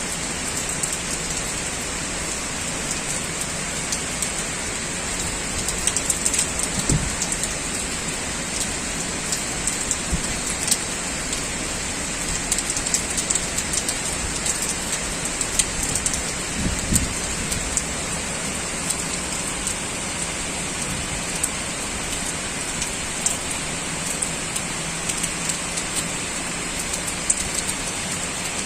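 Heavy typhoon rain falling steadily, with many sharp drop hits and splashes on surfaces throughout.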